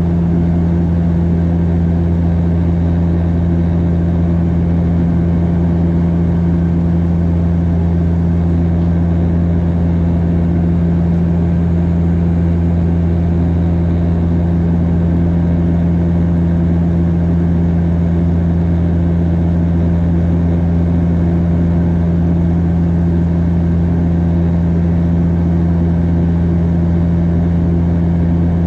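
Steady, loud drone inside the passenger cabin of a Bombardier DHC8-Q400 turboprop in flight: the six-bladed propellers and engines make a deep, even hum with two strong low tones that hold steady throughout.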